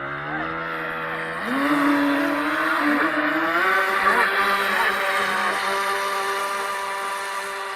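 Twin brushed 480 electric motors of an RC boat whining under throttle. The pitch jumps up about a second and a half in and climbs again a couple of seconds later, then holds a steady high whine.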